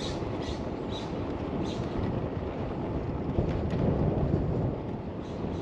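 Steady wind rush and tyre noise on a GoPro microphone riding on a moving bicycle, with a few faint high ticks.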